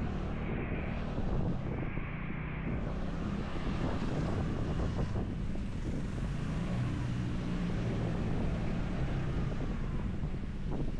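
Motorcycle engine running steadily under way, with wind rushing over the action-camera microphone.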